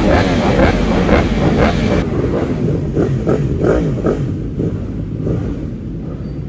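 Superbike engines running and revving, their pitch rising and falling. About two seconds in, the high hiss drops away abruptly.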